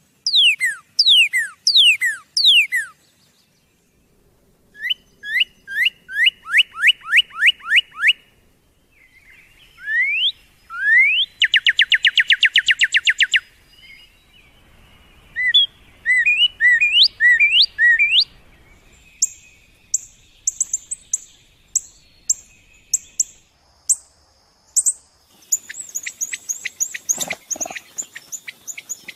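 A songbird singing loud, varied song phrases with short pauses between them. The phrases include downward-sweeping whistles, a fast, even trill about halfway through, and high, thin repeated notes near the end.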